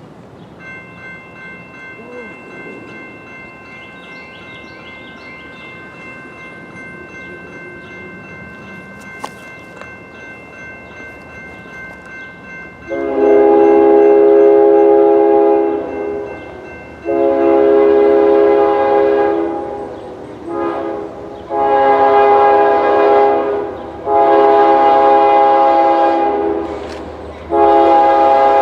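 Diesel freight locomotive horn blowing the grade-crossing signal, starting about 13 seconds in: two long blasts, a short one, then more long blasts, loud and chord-like. Before the horn there is a low train rumble and a steady high ringing tone from the crossing warning.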